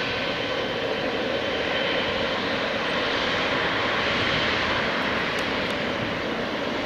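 Boeing 767-300F freighter's twin jet engines at takeoff thrust: a steady rushing jet noise, with a faint high whine in the first couple of seconds.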